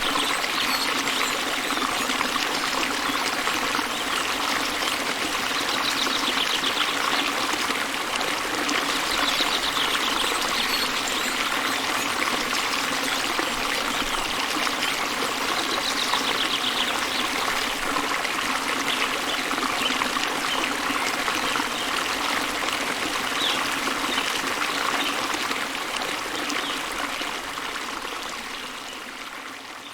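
Waterfall: a steady rush of falling water, with faint bird trills a few times. The sound fades down near the end.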